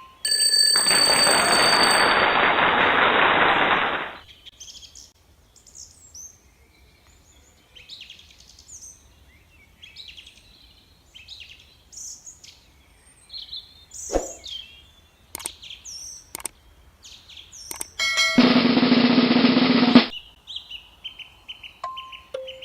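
A loud drum roll for about three seconds, then faint bird chirps and scattered clicks, then a second loud burst about two seconds long near the end.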